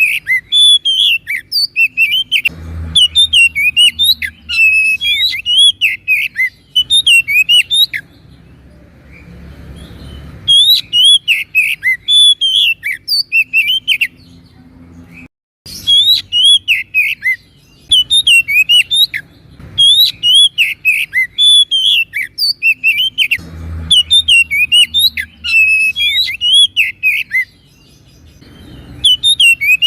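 Oriental magpie-robin (kacer) singing loud, fast runs of varied high chirps and whistles, with pauses of a few seconds about a third of the way in and again about halfway.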